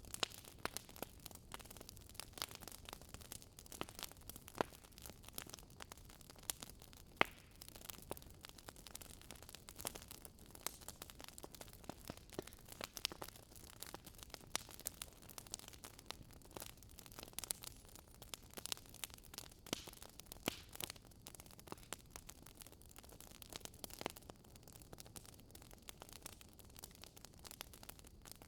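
Campfire burning, a steady low hiss dotted with frequent irregular crackles and sharp pops from the burning wood.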